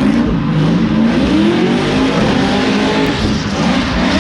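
Nearly 1,000-horsepower Edelbrock Nissan 370Z drift car at full show, its engine revving up and down over and over as it drifts, over the hiss of spinning tyres.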